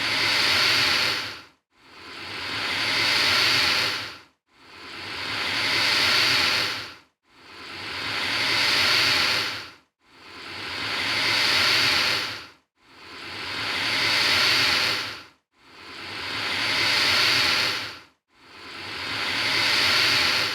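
Alligator hissing: the same breathy hiss repeated about every three seconds, each one swelling and then fading quickly into a short gap before the next.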